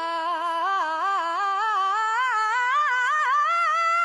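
A woman's voice singing a wordless melismatic run: quick stepped turns climbing steadily in pitch, then a high held note with vibrato from about three and a half seconds in.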